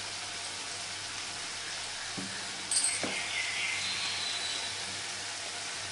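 Onion and tomato masala sizzling in mustard oil in a wok, a steady gentle hiss, with two light knocks about two and three seconds in.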